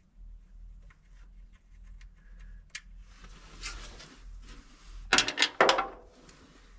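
Hand tools working on the valve cover screws of a 1961 Chevy Viking 60 truck: light metal clicks and scraping, then a quick run of four or five sharp metal clanks about five seconds in.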